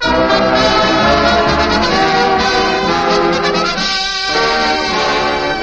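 A brass-led dance band strikes up, with trumpets and trombones prominent, playing a loud full-band musical bridge.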